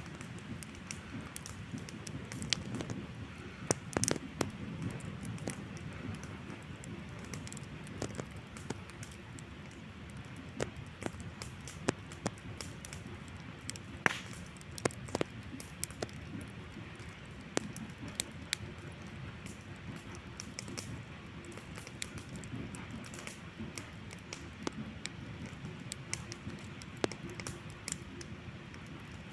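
Wood campfire crackling, with irregular sharp pops over a low steady rush.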